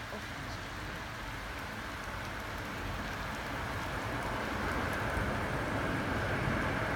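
Heavy thunderstorm rain pouring down in a steady hiss, slowly growing louder.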